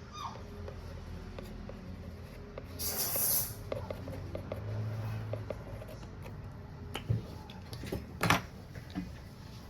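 Scattered small clicks and knocks of tools and phone parts handled on a repair bench, with a brief hiss about three seconds in, over a low steady hum.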